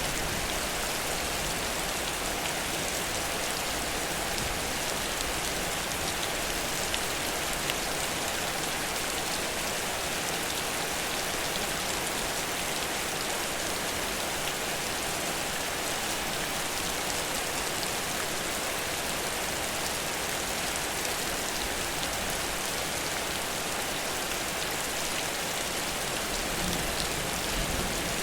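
Heavy rain falling steadily: a dense, even hiss of rain on the ground and surfaces, with scattered individual drop ticks.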